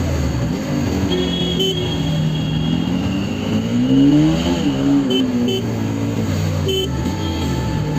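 Bajaj Pulsar NS200's single-cylinder engine running through traffic, its revs rising about halfway through and then easing off again.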